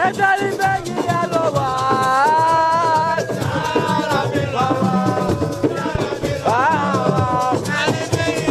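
Live Senegalese praise singing, a voice holding long wavering notes over rattling shaker percussion and drums.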